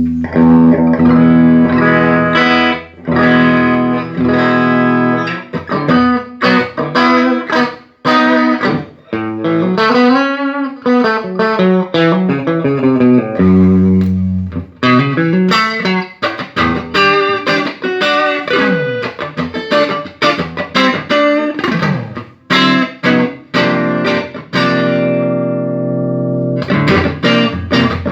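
Electric guitar played through a Peavey Triple X tube amplifier, strumming chords and picking riffs. A note is bent up and back down about ten seconds in. The amp is sounding after a repair of its preamp section, with failed capacitors replaced and the output tubes biased.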